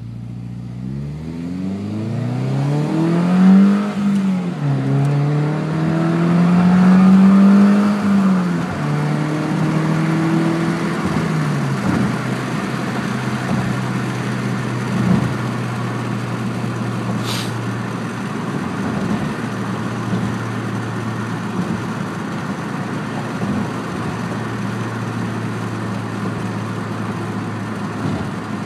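2006 Subaru Impreza's flat-four engine heard through a TurboXS aftermarket exhaust, revving up twice with a short dip between, then dropping back about ten seconds in and holding a steady drone.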